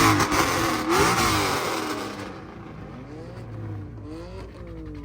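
Car engine revving hard, its pitch swinging down and up again and again. It is loud at first over a rushing noise, then falls off after about two seconds while the revs keep rising and falling more quietly.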